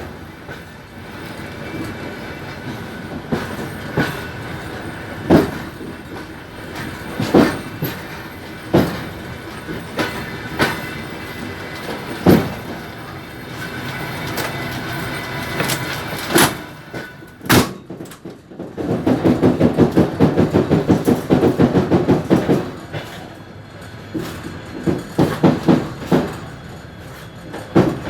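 Suburban passenger train running on jointed track, heard from on board: steady rolling noise with sharp wheel clacks at the rail joints every second or two. A fast run of clacks comes about two-thirds of the way through, and a shorter cluster follows.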